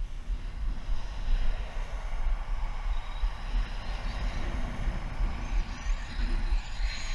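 Strong crosswind buffeting the microphone with a steady low rumble. A faint high-pitched whine builds over the second half as an Arrma Typhon 6S RC buggy's brushless electric motor approaches on a top-speed run.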